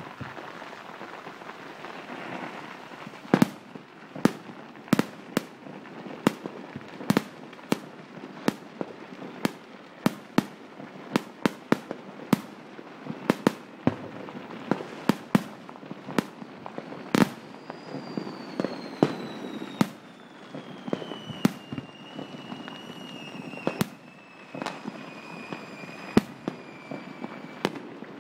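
Neighborhood fireworks and firecrackers going off: sharp bangs at irregular intervals, often several a second, over a constant crackling hiss. Through the second half a long, high whistle falls slowly in pitch.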